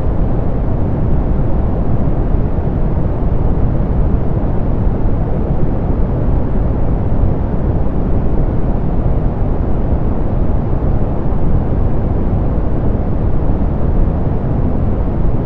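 Steady, softened pink noise: an even hiss-like rush, heaviest in the low end and rolled off in the highs, with no change.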